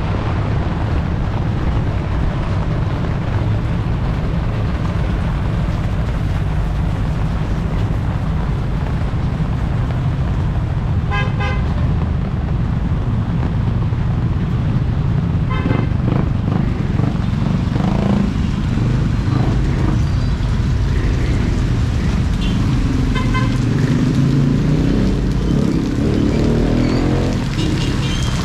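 Street traffic with a steady low rumble, and vehicle horns beeping a few times, about a third of the way in, midway and again later on.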